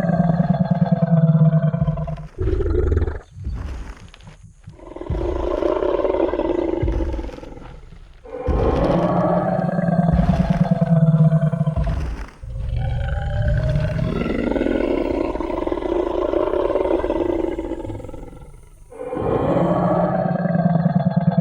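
Tyrannosaurus rex roar sound effect: five long, deep roars follow one another with only short gaps, each with a low rumbling growl beneath. In the gap between the first and second roar, about three seconds in, come a few short low thuds like stomping footsteps.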